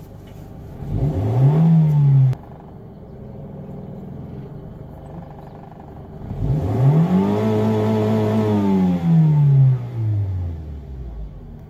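2005 Honda Civic's four-cylinder petrol engine idling and being revved twice: a short blip about a second in, then a longer rev from about six seconds in that holds briefly and falls back to idle. The revs fall back to a steady idle now that the loose intake air temperature sensor connector is refitted and code P0113 is cleared.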